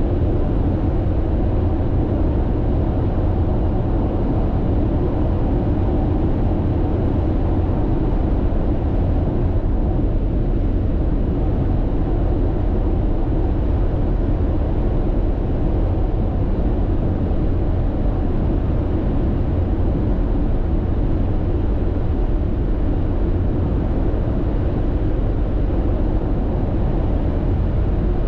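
Steady road noise inside a car cruising at expressway speed: a constant low rumble of tyres and engine, unchanging throughout.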